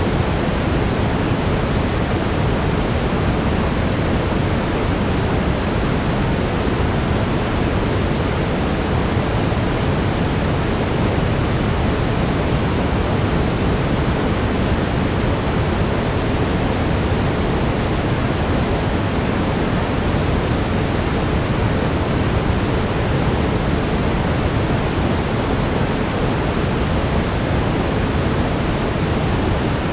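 Synthetic brown noise: a steady, deep hiss that holds even, with no changes.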